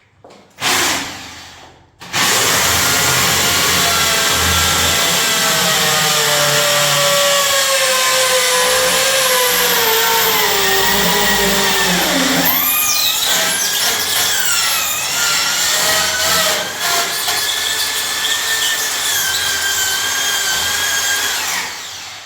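Electric power drill: a short spin about a second in, then a long run of about twenty seconds. The motor's pitch sinks steadily as it works under load, then jumps back up about halfway through and holds.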